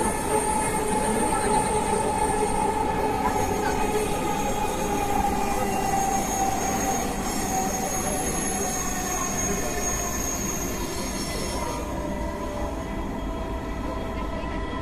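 Dhaka Metro Rail MRT Line 6 train running between stations, heard from inside the carriage: a steady rumble with several high whining tones. The highest whines fade out about three-quarters of the way through.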